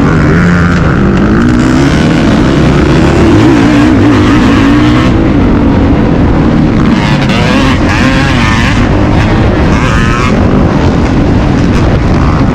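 Motocross dirt bike engine running hard and loud, revving up and down again and again as the throttle opens and shuts.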